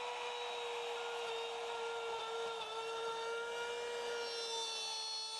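Router with a keyhole bit running, a steady high whine, cutting a keyhole hanging slot into an oak panel; the pitch sags slightly a little after two seconds in.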